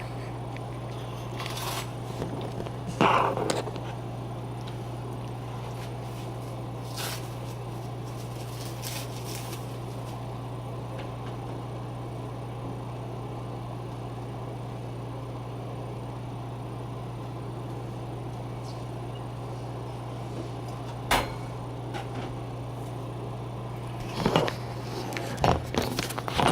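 Knife cutting open a papaya, heard as a few scattered knocks and taps, most of them near the end, over a steady low hum.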